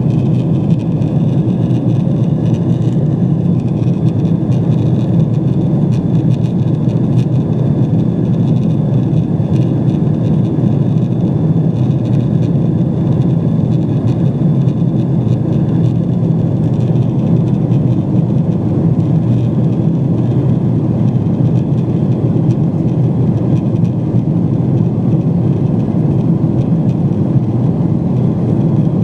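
Cabin noise of a Boeing 777-200 in flight: a steady, low rush of engines and airflow that does not change, with a faint high whine riding above it.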